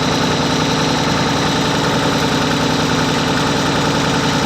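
Massey Ferguson 35 tractor engine running steadily at an even speed.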